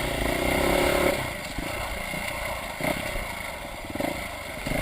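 Off-road vehicle engine running, revved up through the first second and then dropping back to a lower, uneven run, with a few knocks and rattles over the trail.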